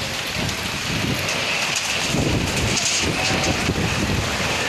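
Heavy rain pouring steadily, with gusting wind buffeting the microphone.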